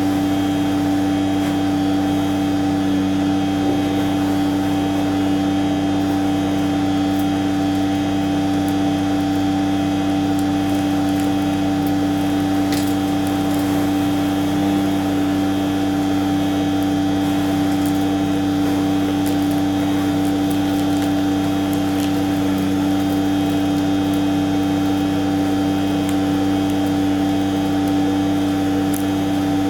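A machine running steadily: an unchanging hum with a strong fixed pitch, a few fainter higher tones and a rushing noise beneath, with no change in speed.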